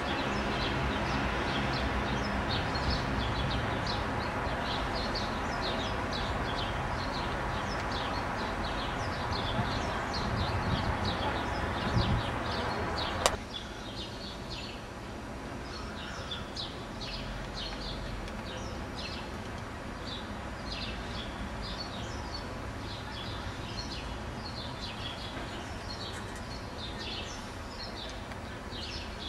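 Many small birds chirping continuously over steady street background noise. A sharp click about thirteen seconds in, after which the background noise is quieter.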